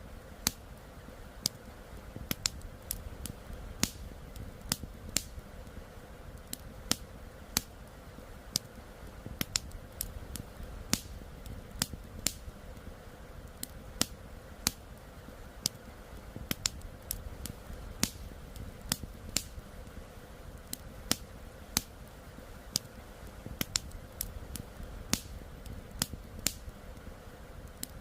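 Wood campfire crackling, with sharp irregular pops about one or two a second over a steady low rush.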